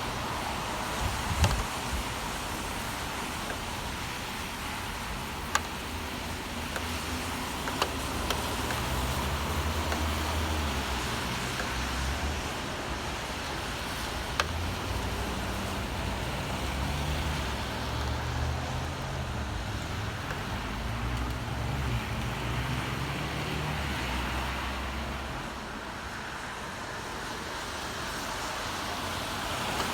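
Steady rain hiss with city road traffic rumbling past, the rumble growing stronger for most of the middle of the stretch and then easing near the end. A few sharp clicks, like drops striking a hard surface, stand out.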